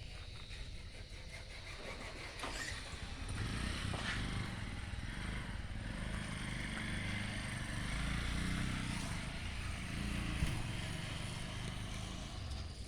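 An engine running, getting louder about three seconds in and easing off near the end.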